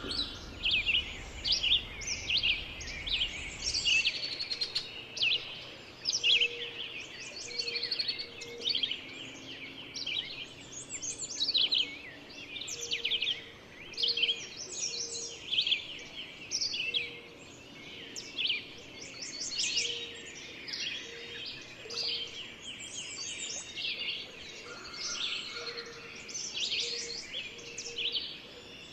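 Several songbirds singing and calling at once: a dense chorus of quick chirps and trills.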